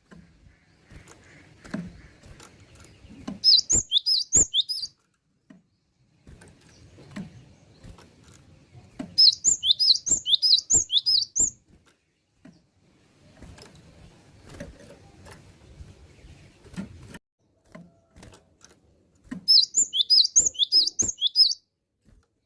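Cinereous tit (gelatik batu) singing: three bursts of quick, high, repeated notes, with faint clicks and knocks in the gaps between phrases.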